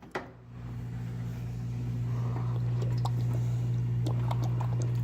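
A steady low hum at one pitch that fades in over the first second or two and then holds, with a few faint ticks and knocks over it.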